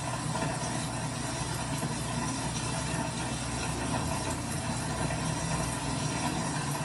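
Steady mechanical running noise: a low hum under an even hiss, with faint ticking.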